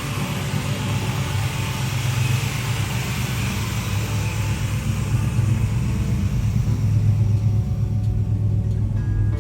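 A 1974 Dodge Charger's 400 cubic-inch V8 running steadily, with a low, pulsing exhaust note that slowly grows louder.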